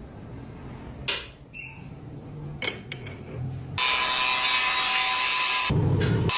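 Lathe machining sounds: a low hum with a few sharp clicks and knocks, then about four seconds in a loud steady machining noise starts, with a thin high whine through it.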